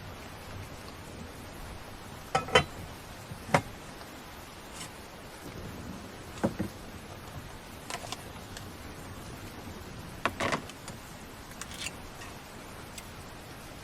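Steady rain falling, with a handful of sharp knocks and clinks, the loudest pair about two and a half seconds in and another cluster about ten seconds in.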